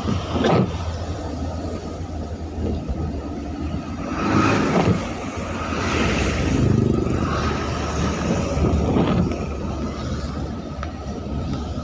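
Road traffic passing on a rain-soaked road: a steady low rumble that swells as several vehicles go by, the biggest pass about four to seven seconds in.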